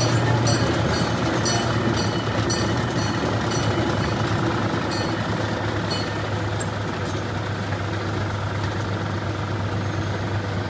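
Small narrow-gauge amusement-park train running slowly, heard from the car behind the locomotive: a steady low engine drone with the rumble of the train rolling. A run of short metallic clicks comes through the first half.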